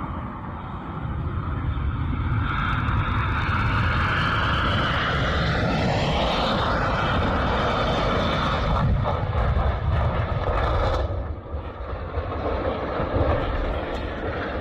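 Jet airliner engines running loud, with a whine that rises in pitch about six seconds in; the noise drops away suddenly near eleven seconds.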